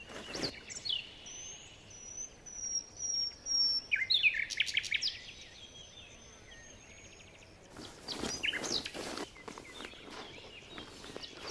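Songbirds singing: a run of high whistled notes, then a quick burst of falling notes about four seconds in. Sleeping-pad and sleeping-bag fabric rustles under hands near the start and again around eight to nine seconds in.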